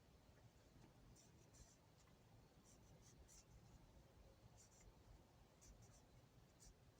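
Near silence, with faint, brief scratching and rubbing sounds several times over as small metal ratchet parts are handled.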